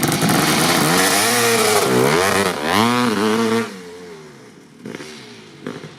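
Kawasaki KX500's single-cylinder two-stroke engine with an FMF Gnarly expansion pipe, revved in throttle blips that rise and fall in pitch. About three and a half seconds in it drops away sharply, leaving only a couple of short, quieter blips near the end.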